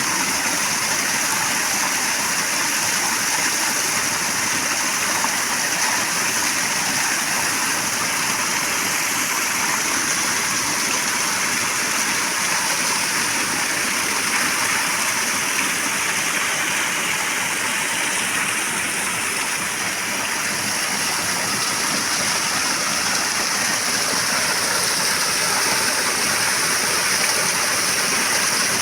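Flowing water rushing steadily, with no change in its sound.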